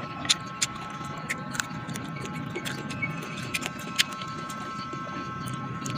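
A person chewing crisp raw mango, with irregular sharp crunches and mouth clicks, about eight in all, over a faint steady hum.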